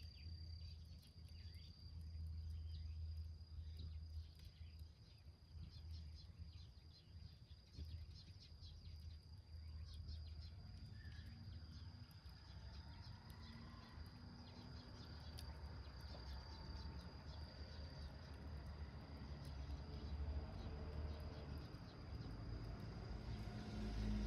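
Small wood fire crackling inside a milk-can stove, with a steady high insect trill and a low rumble of wind. The crackles are thickest in the first half.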